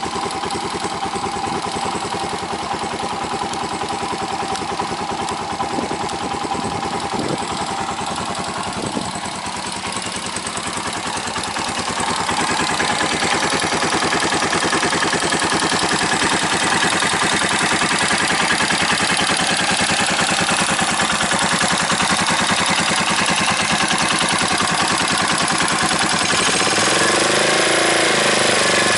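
Honda CB223S's air-cooled single-cylinder engine idling through an aftermarket LeoVince muffler. It gets louder about twelve seconds in, and near the end a short rev rises and falls.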